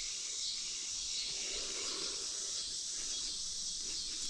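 Steady chorus of insects, a high, even hiss.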